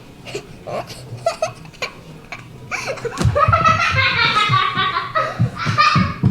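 A young child laughing hard: short bits of giggling at first, then a long run of high laughter from about halfway through.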